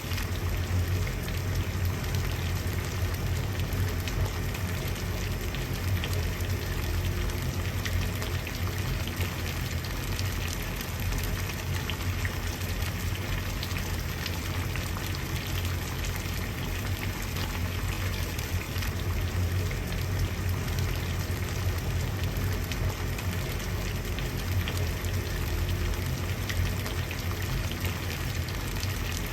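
Water at a steady boil: continuous bubbling with many small pops over a low, even rumble.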